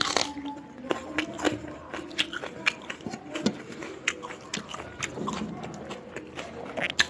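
A person chewing and eating a meal of rice and fried egg close to the microphone: wet mouth sounds and many short, sharp clicks throughout.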